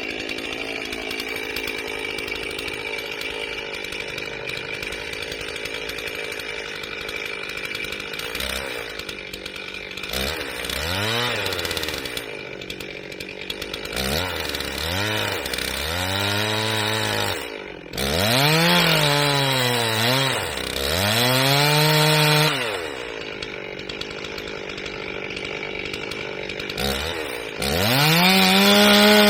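Gas chainsaw engine idling steadily, then revved up and let back down several times in a row, settling to idle again before being revved up and held high near the end.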